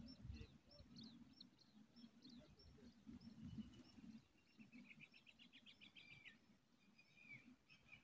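Small birds calling faintly: a string of short high chirps, then a rapid trill about halfway through, and a few more calls near the end, over a faint low rumble.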